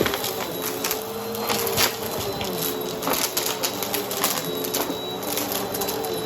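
Vacuum cleaner with its brushroll spinning, the motor running at a steady hum while crunchy debris crackles and clicks as it is sucked up.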